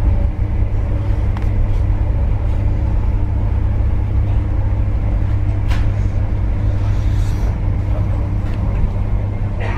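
Passenger train running at speed, heard from inside the carriage: a steady deep rumble with a constant hum over it. Two brief clicks break in, about six seconds in and again near the end.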